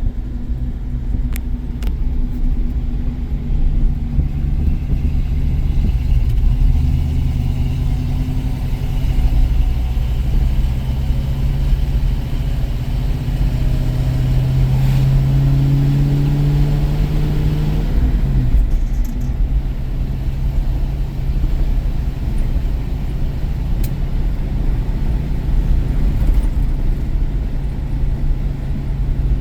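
1973 International Harvester Scout II on the move: steady engine and road rumble, the engine pitch climbing for several seconds past the middle, then falling suddenly before settling back to a steady cruise.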